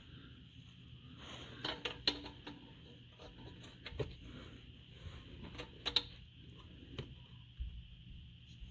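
Light metallic clinks and taps of an O2 sensor, its anti-fouler spacer and hand tools being handled and fitted into the exhaust, in scattered small groups.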